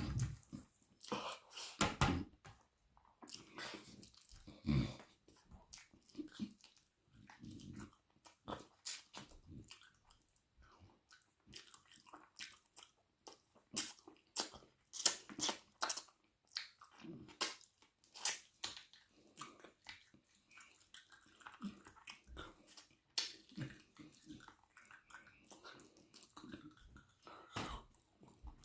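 Close-miked chewing and wet mouth sounds of someone eating curry and rice, irregular smacks and clicks spaced a fraction of a second to a second or so apart.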